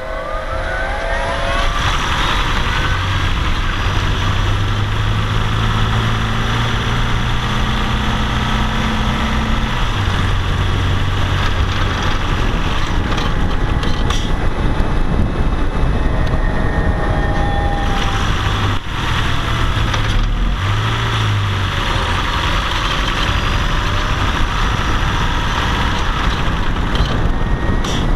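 Car driving uphill: engine under load with steady road and wind noise. A rising whine comes in the first couple of seconds, and a low drone holds for several seconds and returns briefly later. This is the uphill abnormal noise that the owner finds somewhat reduced after an ECU relearn.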